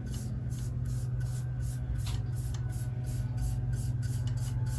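Quick, rhythmic rubbing strokes, about four or five a second, of boiled linseed oil being wiped onto a sanded wooden bowl, over a steady low hum.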